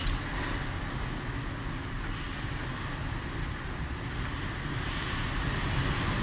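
Typhoon-force wind blowing over the hotel building: a steady low rumble with a hiss on top, like a truck driving on the roof, swelling slightly near the end.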